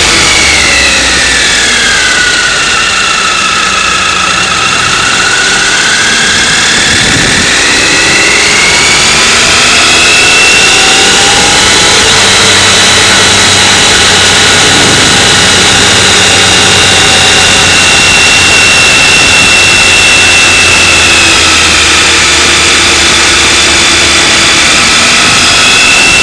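Motorcycle engine running on the move, with wind noise over the microphone. Its revs drop over the first few seconds, then climb again between about eight and twelve seconds in, and hold fairly steady after that.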